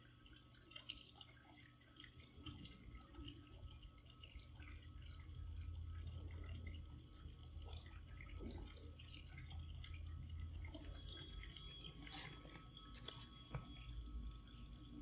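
Faint water dripping and trickling in a pool, with scattered small splashes, over a low rumble that swells about two seconds in and eases near the end.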